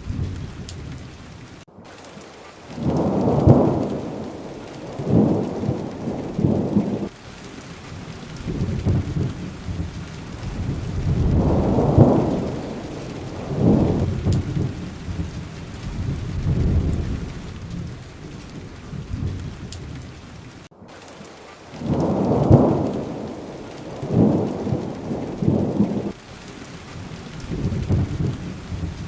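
Steady rain with thunder rumbling in repeated low swells, rising and fading every few seconds. The sound drops out for an instant twice.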